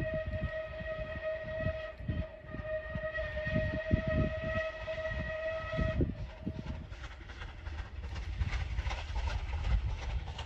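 Whistle of Battle of Britain class steam locomotive SR 34067 Tangmere sounding one long steady blast that cuts off about six seconds in, over the rumbling noise of the passing train.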